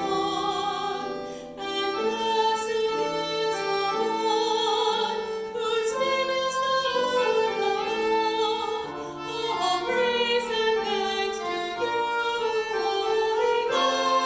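A singer with strong vibrato singing a verse of a church canticle, with instrumental accompaniment.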